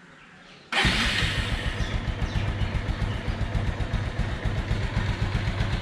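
Bajaj Pulsar 220's single-cylinder engine idling with a rapid, even beat, running on freshly changed oil. The sound cuts in suddenly under a second in.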